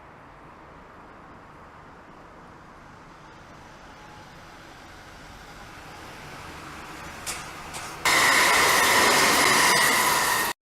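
Train passing on the line: a rumble that grows over several seconds, a couple of clicks, then loud wheel-on-rail noise close by that cuts off suddenly.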